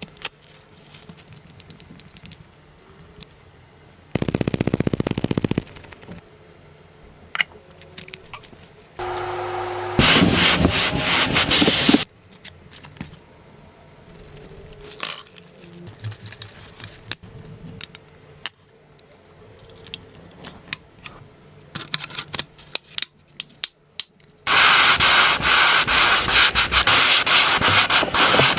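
Sanding and rubbing during restoration bodywork, in separate passes: a short one about four seconds in, a longer one that begins with a steady tone from about nine seconds, and the loudest, about four seconds long, near the end. Scattered clicks and taps fill the gaps.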